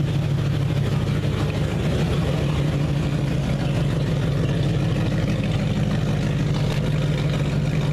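Ford Mustang GT's 4.6-litre V8 running at a steady idle, loud and raw through an exhaust with no mufflers fitted.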